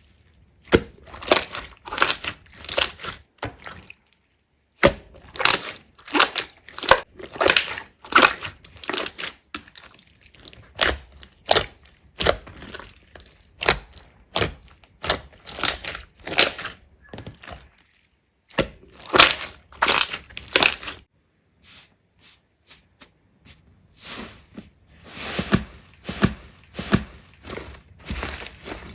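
Slime being squeezed and pressed by hand, giving bursts of sharp crackles and pops that come in quick clusters about every half second to a second, with a few brief breaks.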